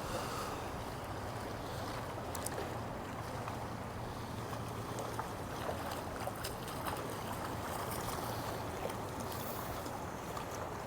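Steady wind and water noise around a small fishing boat on the river, with a low steady hum underneath and a few faint scattered ticks.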